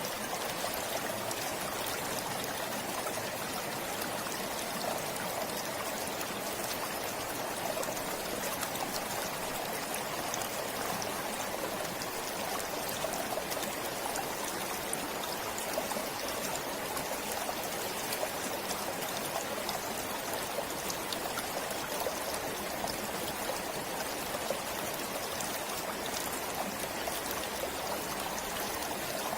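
Forest stream flowing, a steady, even rush of running water with fine trickling.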